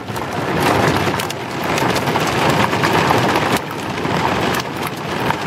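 Torrential rain pouring down: a loud, dense hiss full of sharp drop impacts close by, swelling and easing in waves.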